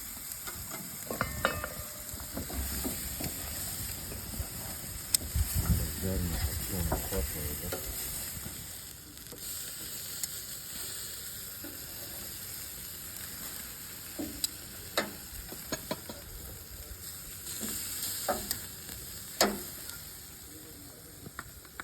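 Food sizzling as it fries over a fire, a steady hiss with a few sharp crackles now and then.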